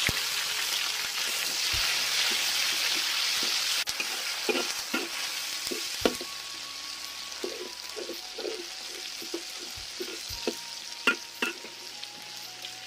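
Tomato, garlic and ginger sizzling in hot oil while being stir-fried, a spatula scraping and knocking against the pan. The sizzle is loud for the first few seconds, then dies down to a softer hiss under the spatula strokes.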